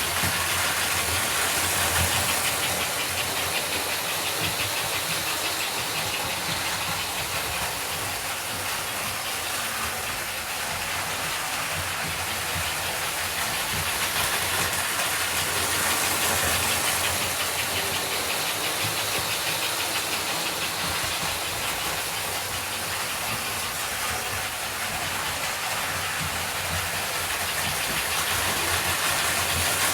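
American Flyer 322 Hudson model steam locomotive running steadily on track: continuous motor and gear hum with wheel noise on the rails.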